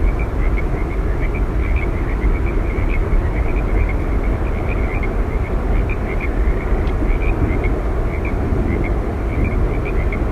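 Steady roar of Yosemite Falls, a deep continuous rush of falling water, with faint high chirps scattered over it several times a second.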